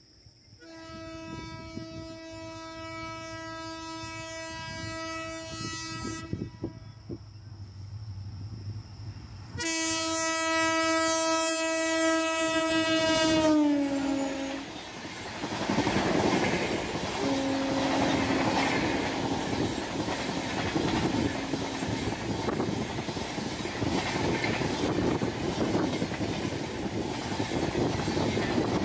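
Diesel locomotive sounding its horn in two long blasts as it approaches at speed, the second louder and dropping in pitch as the locomotive passes. Then the passenger coaches rush past with a loud, steady noise of wheels on the rails.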